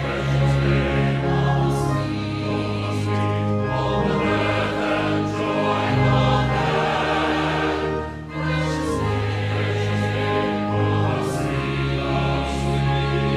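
Choir singing sacred music, held notes sung in phrases of a few seconds each.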